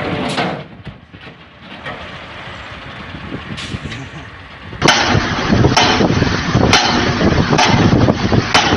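Heavy vehicle noise, which drops away about half a second in. Near the end it gives way abruptly to a louder, rougher run of noise with a sharp knock about once a second.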